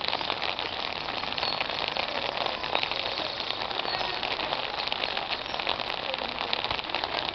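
Steady rain falling, a dense, even pattering of many small drops on surfaces.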